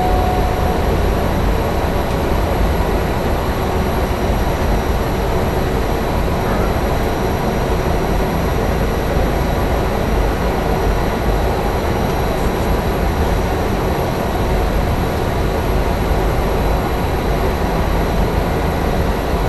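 Cessna Grand Caravan EX's PT6A-140 turboprop running steadily at idle, heard from the cockpit: a deep, even rumble with a constant high turbine whine over it.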